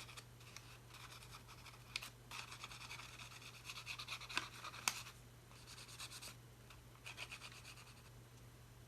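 Faint scratching of an art tool rubbing on a paper-bag journal page, in short runs of quick strokes with a few light taps, as brown is added to frame the page.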